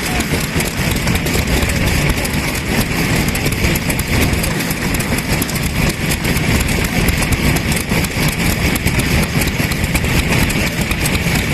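Vintage kerosene stationary engine running steadily with a fast, even chugging.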